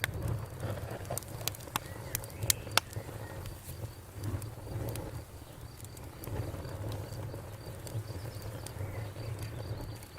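Campfire burning with irregular sharp crackles and pops, most of them and the loudest in the first few seconds, over a low steady rumble of the flames. A faint, steady high insect trill runs behind it.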